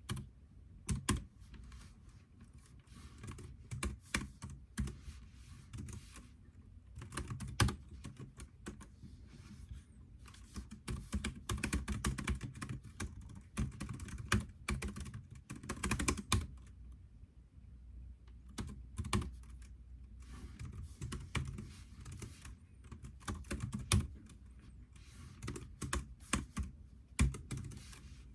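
Typing on a computer keyboard: irregular runs of keystrokes broken by short pauses, with a few louder key strikes standing out.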